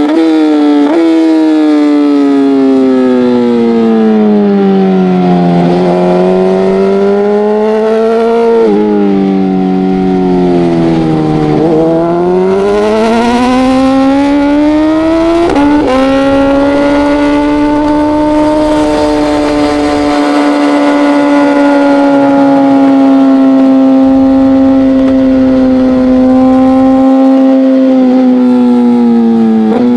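Race motorcycle engine heard on board. Its pitch sinks and climbs in long sweeps, jumping up sharply three times as gears change. It then holds a steady middling rev that eases off slowly near the end.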